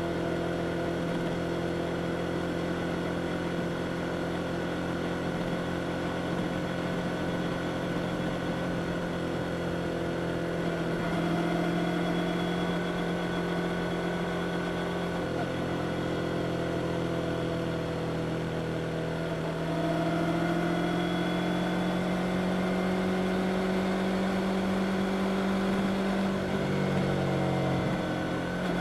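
Yamaha R25's parallel-twin engine running at steady revs on the move, its pitch stepping up about 11 seconds in, then climbing slowly from about 20 seconds, with a brief dip near the end.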